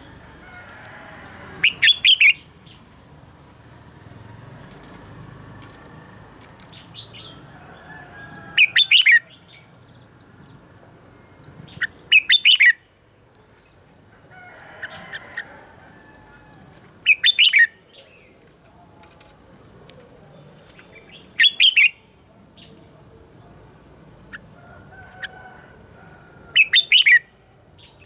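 Red-whiskered bulbul singing: six short, loud phrases of rapid notes, one every four to five seconds, with fainter chirps in between.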